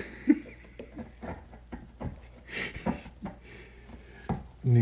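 Wood being hand-carved with a blade: a series of irregular short cuts and scrapes.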